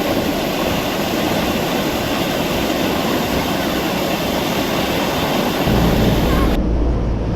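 Steady rush of fast-flowing river water running high after rain. It cuts off suddenly near the end, just after a low rumble comes in.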